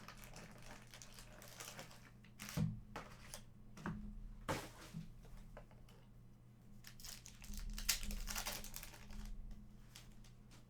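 Foil trading-card pack wrappers crinkling and tearing, with scattered handling noises and clicks as cards are handled, over a steady low electrical hum.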